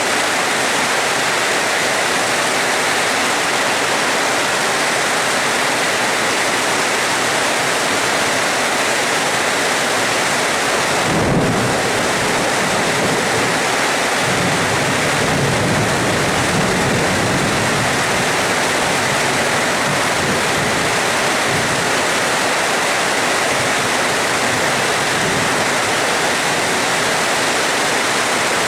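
Steady rain hiss, with a clap of thunder breaking in suddenly about eleven seconds in and rumbling low for several seconds before it fades back into the rain.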